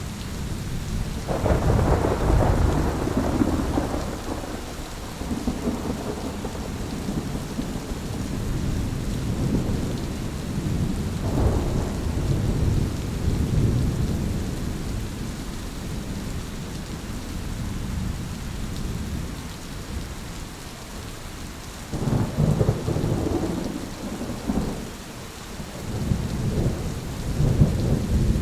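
Thunderstorm: steady rain falling, with rolling thunder rumbles rising and fading over it, a loud one about a second and a half in and another burst of rumbles near the end.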